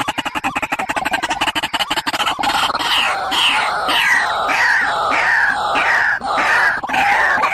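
Barred rail (tikling) calls. A fast clicking rattle runs for about two seconds, then gives way to a series of loud, squealing down-slurred notes, a little over two a second.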